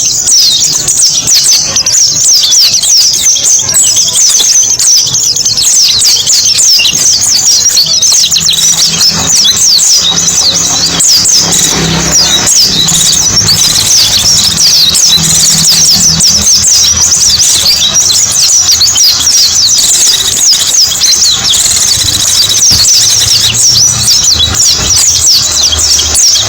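Pleci (white-eye) birds twittering: a dense, unbroken stream of rapid, high chirps, the kind of recording played as a lure for small birds.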